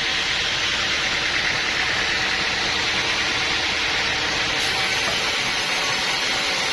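Sawmill machinery running steadily, a dense even mechanical noise with no breaks.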